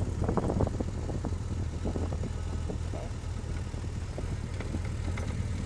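Motorcycle engine running at a steady drone while riding, over a constant rush of noise, with a few short ticks in the first couple of seconds.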